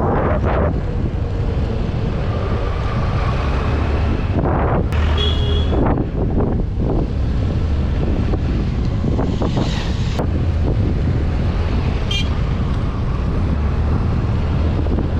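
A vehicle running on a rough road, with wind rushing over the microphone and the engine's steady low rumble. A few short knocks and rattles come through, around five seconds in and again near ten seconds.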